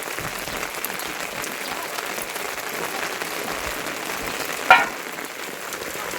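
Steady rain falling, an even hiss. About three-quarters of the way through, one short, sharp, loud sound cuts in briefly.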